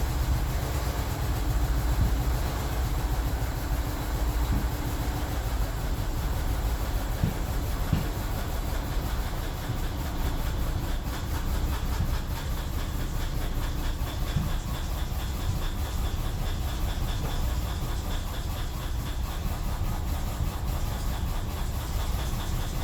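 BMW 745Li's 4.4-litre V8 running steadily but unevenly at idle, with irregular low pulses through the rumble: a misfire, with fault codes for the camshaft position sensors and misfire fuel cutoff on cylinders 8, 3, 7, 6 and 4.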